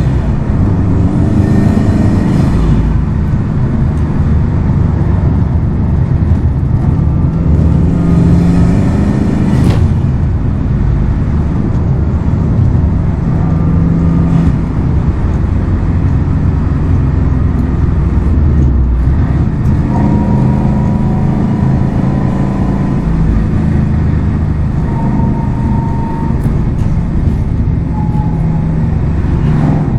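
Subaru WRX STI's turbocharged flat-four engine and exhaust running steadily while the car is driven, the engine note shifting in pitch as the revs change.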